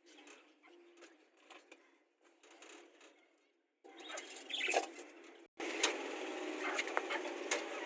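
Small pet parrots (lovebirds) chirping and chattering in short bursts, with rustling and small clicks. About two-thirds of the way through, the sound cuts out briefly and comes back louder over a steady hiss.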